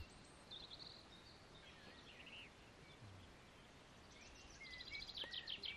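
Faint bird calls over near silence: a few scattered short whistled chirps, then a quicker run of chirps near the end.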